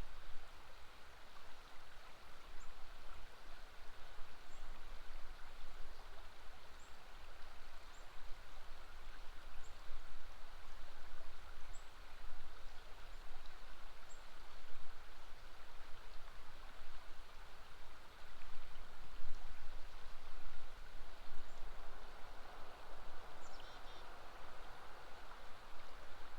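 River water flowing, a steady rushing. Faint high bird chirps come every second or two, with a short run of calls near the end.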